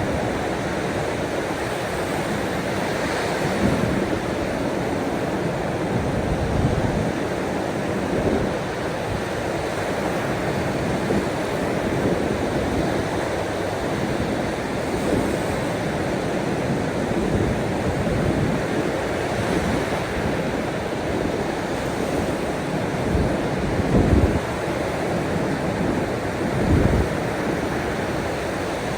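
Sea waves washing steadily onto a shore, with short gusts of wind buffeting the microphone every few seconds.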